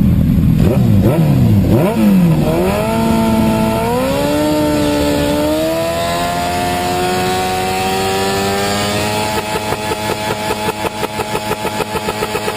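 Sport motorcycle engine revved in a few quick blips, then held in one long rev whose pitch climbs slowly. About nine seconds in, the note breaks into a rapid, even stutter of about three pulses a second.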